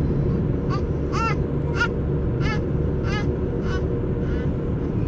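A bird giving short, harsh calls in a series, roughly two a second, over a steady low rumble.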